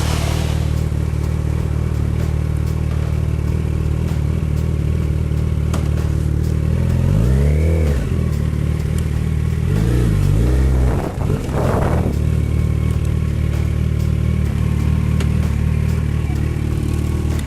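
Motorcycle engine running steadily at low revs, revved up and back down twice, near the middle of the stretch.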